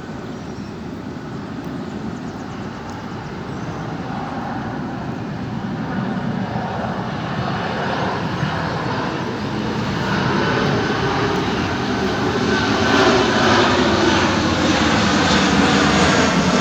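Boeing 737-800's CFM56 jet engines on final approach: a steady jet noise with a faint whine, growing gradually louder as the airliner comes closer.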